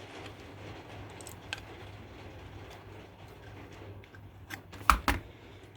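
Light clicks and small knocks from handling components on a speaker crossover board, a few sharper ones near the end, over a steady low hum.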